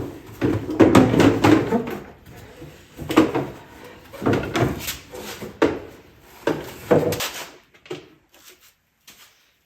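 Plastic ATV fenders being handled and fitted onto the frame: a run of irregular knocks and clatters that thins out near the end.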